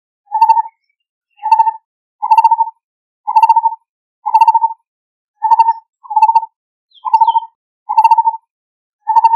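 Lineated barbet calling: a steady series of short notes, about one a second.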